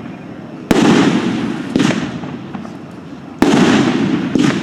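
Red Rhino 'Shotgun' 500 gram firework cake firing. It makes loud bangs in two pairs: each pair has one report followed about a second later by another, and the pairs come roughly three seconds apart. Each bang dies away slowly, with faint crackles between the shots.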